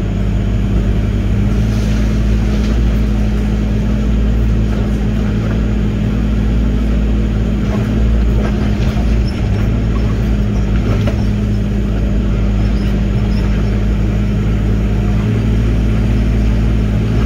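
Diesel engine of heavy earthmoving equipment running steadily at a constant speed, with a few faint knocks over it.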